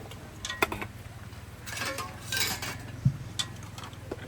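Dishes and eating utensils clinking and scraping, with a few sharp clicks, over a steady low hum.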